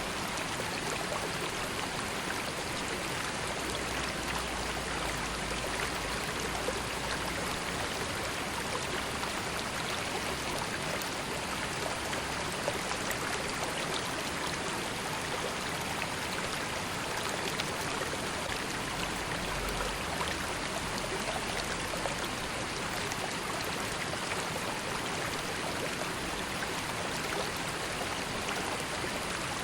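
A river flowing gently: a steady rush of water with small splashes and trickles that never changes in level.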